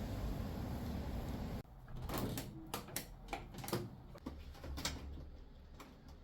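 A steady hiss that cuts off suddenly about a second and a half in, followed by a run of sharp clicks and knocks, like doors, drawers or household objects being handled.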